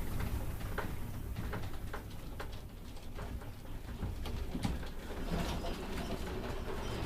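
Steady low rumble with scattered clicks, knocks and rattles: a building and the things in it shaking during a strong earthquake.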